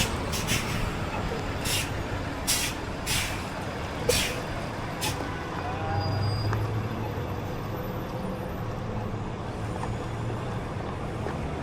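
City street traffic running steadily, with about six short hisses in the first five seconds and a low hum that swells twice.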